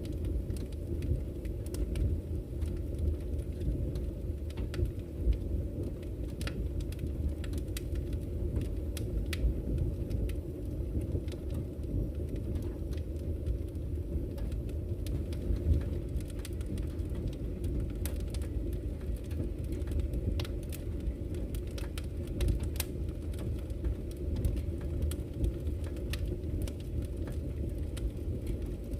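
Campfire crackling, with irregular sharp pops and snaps scattered through, over a steady low rush of flowing river water.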